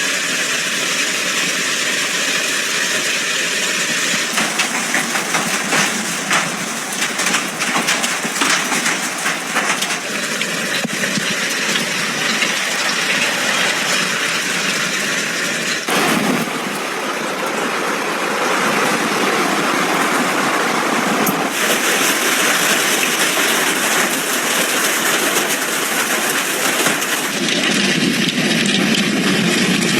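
Heavy rain and hail pounding down, a dense hiss with scattered sharp clicks of hitting stones. The sound shifts abruptly several times.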